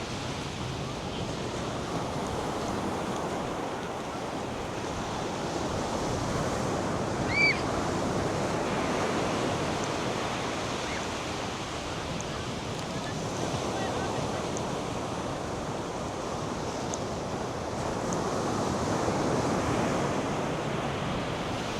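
North Sea surf breaking and washing up the beach: a steady rushing that swells and eases, with some wind. A single short high chirp cuts through about seven seconds in.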